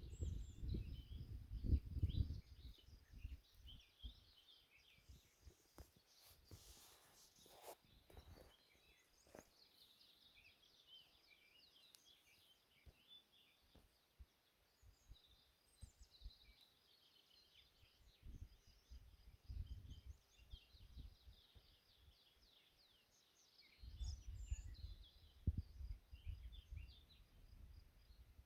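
Faint birdsong: several small birds chirping and trilling. Low gusts of wind rumble on the microphone at the start and again in the last few seconds.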